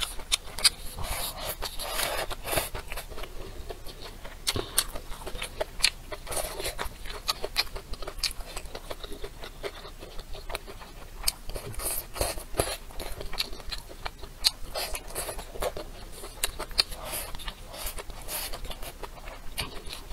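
A person chewing braised bamboo shoots and tofu close to the microphone: wet chewing and lip-smacking with many sharp, irregular clicks.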